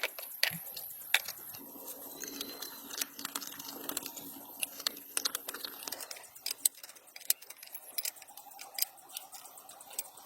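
Irregular light clicks and taps of small hard objects being handled, over a faint steady hum.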